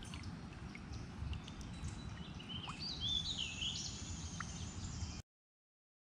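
A bird singing, a few rising and falling whistled notes in the second half, over a low steady rumble. The sound cuts off suddenly about five seconds in.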